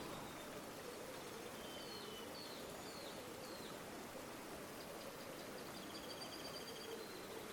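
River water flowing steadily, with faint bird calls over it: a few short chirps in the first half and a quick trill about five seconds in.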